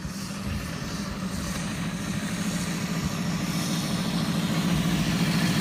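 V4 motorcycle engine running at a steady speed, growing gradually louder.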